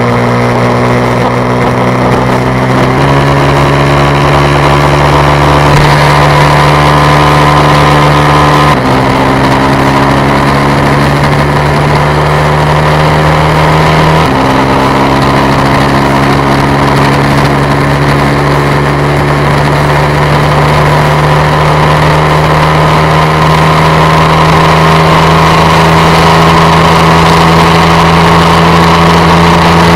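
250cc sport motorcycle engine running hard at high, steady revs; its pitch steps a few times in the first half, then climbs slowly as the bike keeps accelerating.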